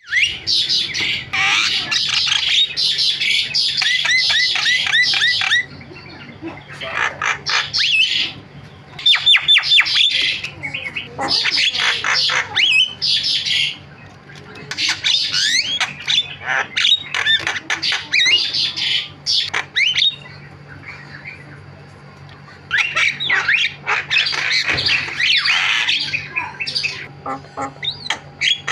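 Javan myna (jalak kebo) singing at length: a busy, chattering run of harsh squawks, whistles and quick sliding notes in bouts of several seconds, including a quick string of about eight falling notes. There are short pauses between bouts, about six seconds in, near fourteen seconds, and just after twenty seconds.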